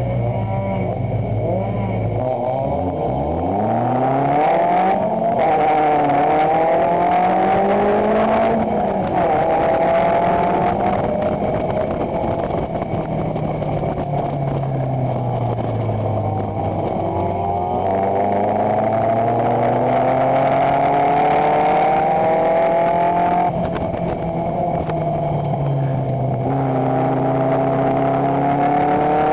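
Chevron race car's engine, heard from its open cockpit, pulling away hard about two seconds in and revving up through the gears. Pitch drops at each upshift, sags while the driver eases off in the middle, then climbs again.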